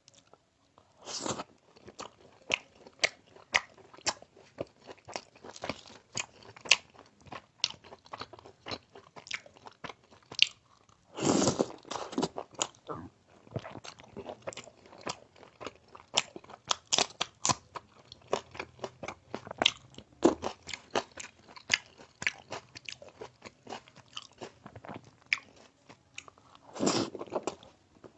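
Close-miked eating of crunchy food: three big crunching bites, near the start, midway and near the end, with rapid crisp chewing crunches in between.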